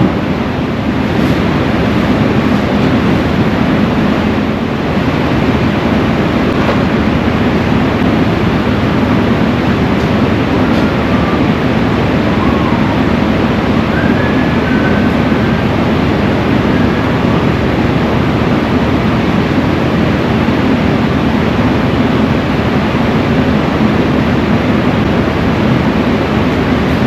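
A vehicle running: a loud, steady rumble with a rushing noise over it, and a few faint short squeaks about halfway through.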